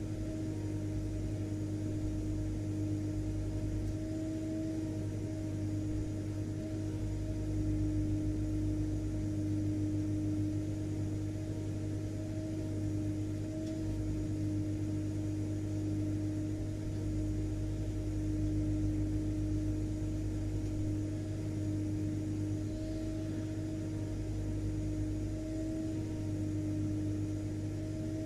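Household vacuum cleaner running steadily: a constant motor hum with a few held tones over an even rush of air.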